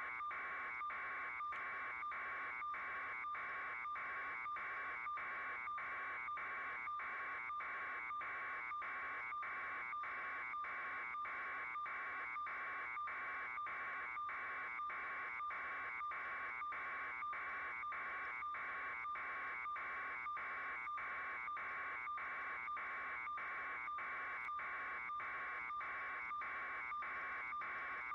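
A steady electronic-sounding buzz, pulsing evenly about twice a second.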